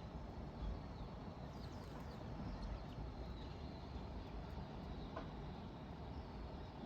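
Steady low background rumble, with a few faint, short high chirps about two seconds in.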